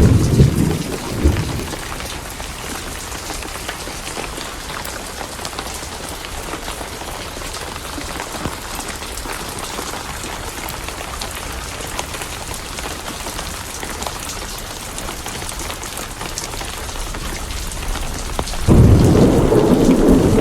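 Steady rain with a thunder rumble that fades out within the first two seconds, and another loud roll of thunder that breaks in suddenly near the end. Fireplace crackles tick lightly over the rain.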